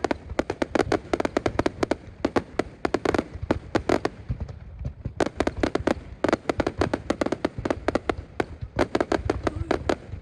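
Fireworks going off as a rapid, dense run of sharp pops and cracks, many a second, easing briefly about halfway through before picking up again.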